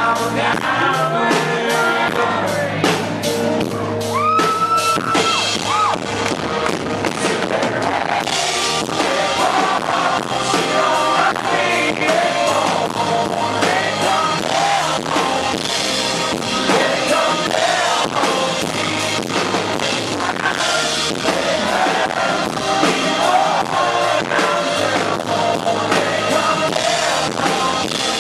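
Live country-rock band playing, with a male lead singer over drum kit and guitars at a steady beat. The band grows fuller and brighter about eight seconds in, with more cymbals.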